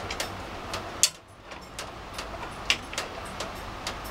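Heavy rain outside a window: a steady hiss with irregular sharp ticks. The loudest tick comes about a second in.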